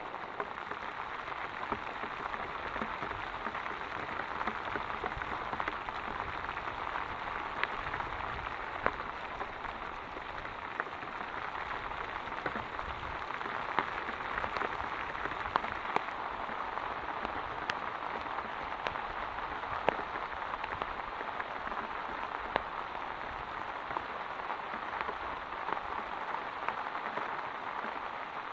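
Heavy rain falling steadily, with single drops now and then ticking sharply above the even hiss.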